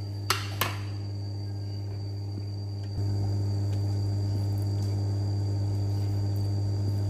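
Induction cooktop humming steadily while it heats a pot of water, the hum stepping up louder about three seconds in, with a thin high whine above it. Two sharp clicks near the start.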